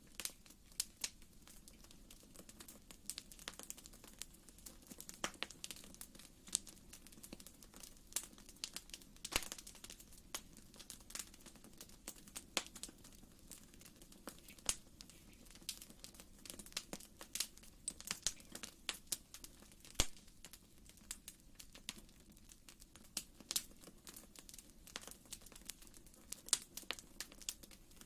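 Wood fire crackling in a fireplace: irregular sharp pops and snaps over a soft, steady rush of flame.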